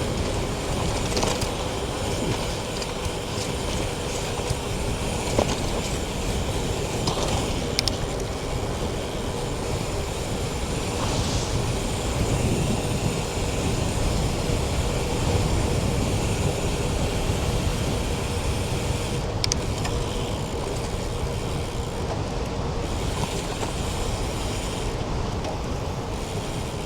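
Steady riding noise on a moving bicycle: a mechanical ratcheting clatter, as from the drivetrain or freewheel, over a constant rumble of road and traffic noise.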